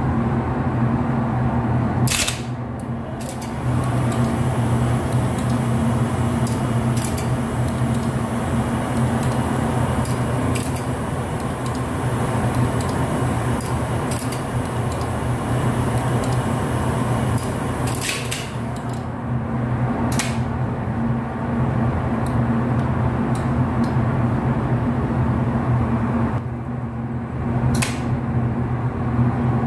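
Steady low electrical hum from elevator equipment. Four sharp clicks come about 2, 18, 20 and 28 seconds in, and the hum eases briefly after the first click and again shortly before the last.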